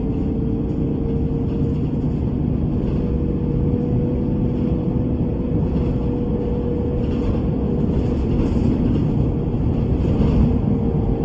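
Bus running: a steady low rumble with a thin, steady whine over it.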